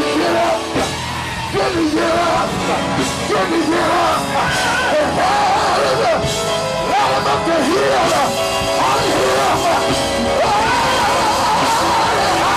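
Live gospel band playing, with a voice singing and shouting over the music.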